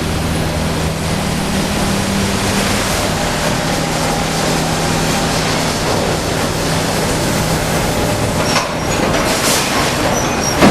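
Sawmill machinery running: a loud, steady din with a low hum, joined in the last few seconds by clattering and short high squeals of metal.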